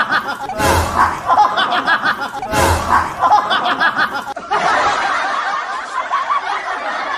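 Laughter that comes again in the same pattern about every two seconds, then gives way to a different, continuous stretch of laughter about four and a half seconds in.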